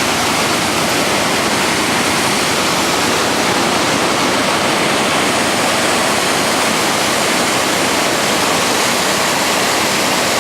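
A rain-swollen river rushing and cascading over rocks, running high after days of rain. The water noise is loud and steady.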